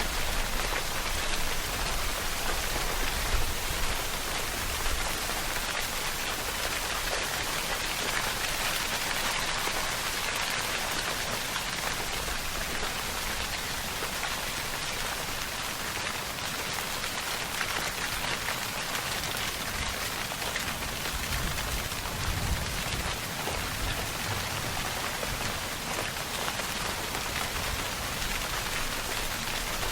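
Steady rainfall: a dense, even hiss of drops hitting surfaces, with a few slightly louder spatters in the first five seconds.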